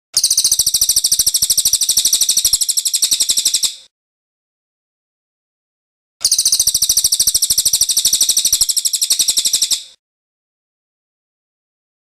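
Cililin bird's rolling song: a fast, even trill of high, rapidly repeated notes. It comes in two phrases of nearly four seconds each, with about two seconds of silence between them.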